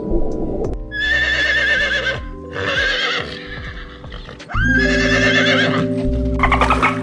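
A horse whinnying three times, each a high, quavering neigh, over background music. Near the end a rapid run of clicking calls begins.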